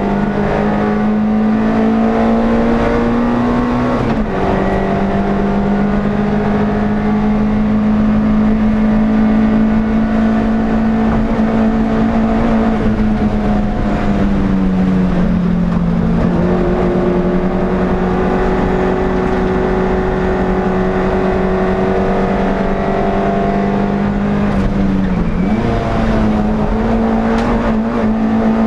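Onboard sound of an NSU TT race car's rear-mounted, air-cooled four-cylinder engine held at high revs. The engine note drops sharply with a gear change about four seconds in and sags for a couple of seconds around the middle as the car slows. Near the end it dips briefly and climbs again.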